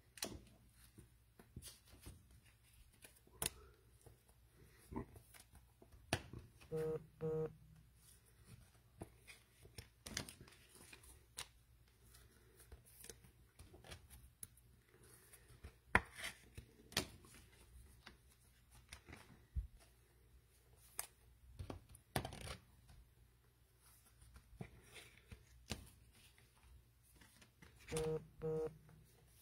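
Faint rustling, clicks and light tearing of trading-card pack wrappers and cards being handled and sorted. Two short pulsed tones, one about a quarter of the way in and one near the end.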